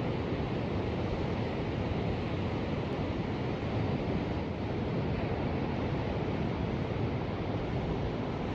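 Ocean surf washing steadily, with no single wave break standing out.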